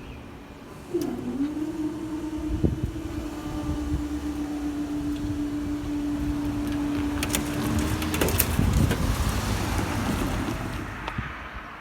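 An electric multiple-unit train passes over the level crossing: a steady single tone holds for about seven seconds, then a rushing noise and a quick run of wheel clicks build up and fade near the end.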